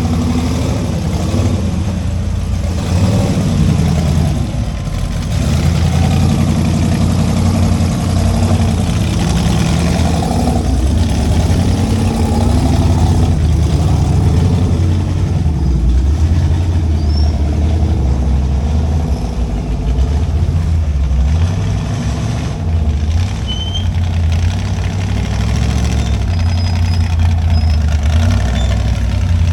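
Off-road rig's engine running at low revs, the throttle rising and falling as it crawls over rocks.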